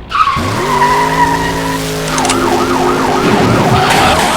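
A car engine revs up with a tyre squeal as it pulls away. About two seconds in, a police siren starts yelping fast up and down, about three to four sweeps a second.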